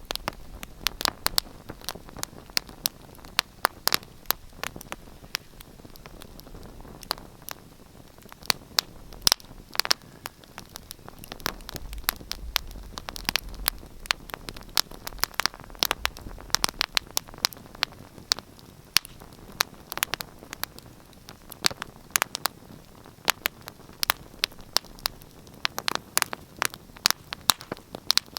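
Wood fire in a fireplace crackling: irregular sharp pops and snaps, several a second, over a steady hiss, with a faint low rumble of the flames partway through.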